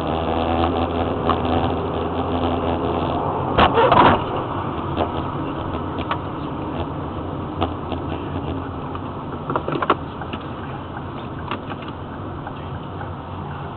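Car engine and road noise picked up by a dashcam's microphone, a steady low hum. A loud thump comes about four seconds in, and a smaller pair of knocks near ten seconds.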